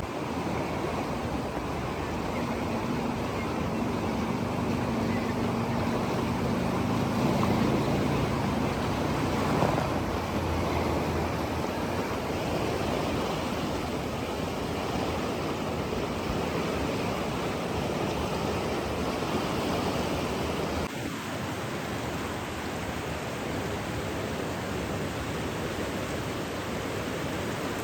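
Steady rushing water, an even wash of noise like surf or a fast stream, with a faint low hum under it from about two to ten seconds in.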